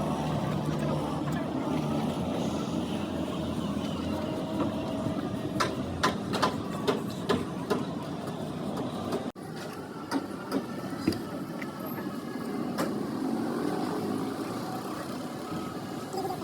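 Truck workshop noise: a vehicle engine running steadily, then scattered sharp metal clinks and knocks from work on the vehicle.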